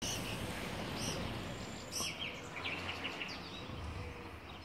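Outdoor ambience: small birds chirping now and then, with a quick run of chirps near the middle, over a steady background hiss.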